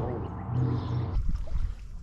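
A man's voice briefly, then, after a cut about a second in, water splashing and dripping around a kayak, with scattered knocks and low wind rumble on the microphone.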